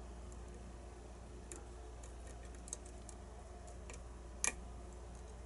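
Faint, scattered metallic clicks of lock picks working the pins inside a challenge lock, with a sharper double click about four and a half seconds in.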